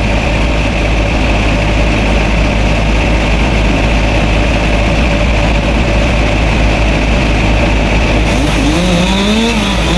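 A motor engine running steadily at an even, loud level, with a deep hum under it.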